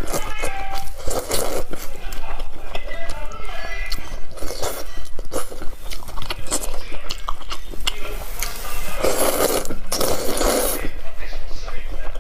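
Close-miked eating: a person biting and chewing food, with many short wet mouth clicks and a few louder noisy bursts of chewing.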